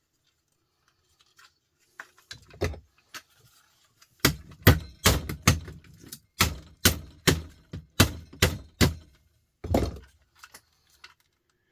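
Heavy knocks struck on a part being dismantled: a couple of blows about two seconds in, then about a dozen in quick succession, roughly two a second, stopping near the end.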